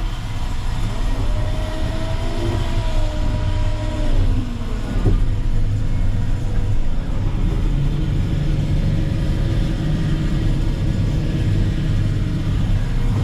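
Terex FD4000 front-discharge concrete mixer truck's diesel engine running, heard from the cab, with a whine that rises and then falls in pitch over the first few seconds.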